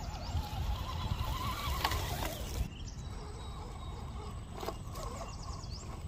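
Small electric motor and gears of a 1/10 scale RC crawler whining as it drives over rough ground, the pitch wavering and rising with the throttle, over wind rumble on the microphone. About a third of the way in, the sound drops to a quieter, thinner background.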